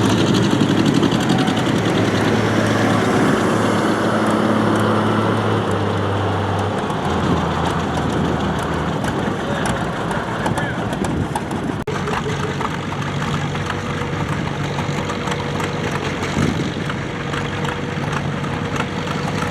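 Antique farm tractor engine running steadily, then dropping in pitch and easing off about seven seconds in, with a lower, steady engine sound after.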